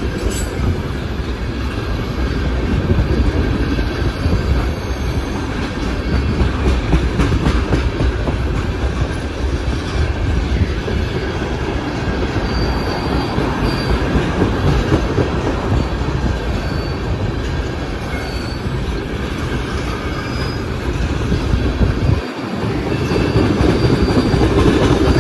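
Freight train cars rolling past: a steady, loud rumble of steel wheels on rail, with a few brief faint wheel squeals.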